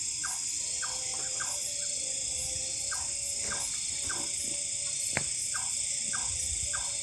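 Night-time forest insect chorus: a steady high buzzing drone, with short calls repeating about twice a second. A single sharp click comes about five seconds in.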